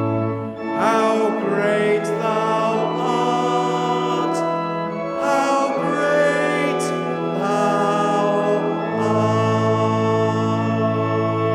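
A church congregation singing a hymn to organ accompaniment, with long held organ chords under the voices.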